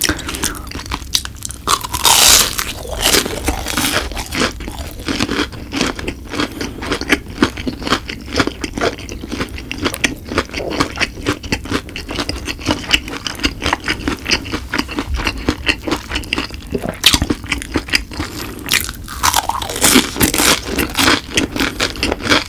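Close-miked chewing of a breaded fried cheese stick: rapid crunching and crackling of the crust between the teeth, with a sharper crunch about two seconds in.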